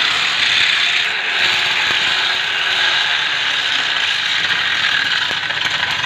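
Electric arc welding: a steady, loud crackling hiss of the arc that runs without a break.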